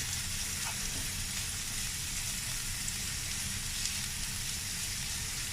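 Chopped onion and grated carrot frying in oil in a pan: a steady sizzle.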